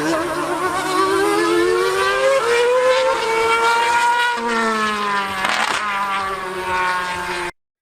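Race car engine revving hard, its pitch wavering and climbing over the first two seconds or so, then easing, over a lower steady engine drone. The sound cuts off abruptly just before the end.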